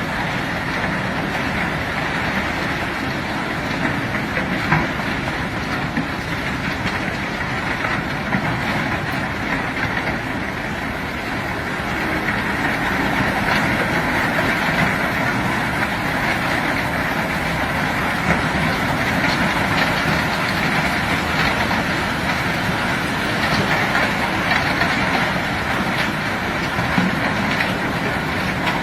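Heavy machinery running steadily while rock is unloaded from a ship, with a few light knocks and a slight rise in level about twelve seconds in.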